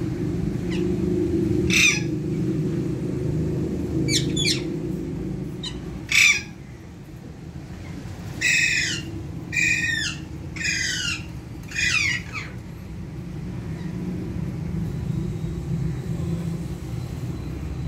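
Parrot squawking: about eight short calls, each falling in pitch, the last four coming about a second apart, over a steady low rumble.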